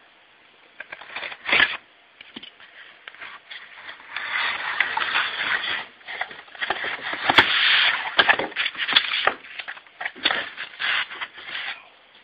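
Irregular crinkling, scraping and clicking of objects being handled, in uneven bursts. It is loudest from about four to ten seconds in, with one sharp click about seven seconds in.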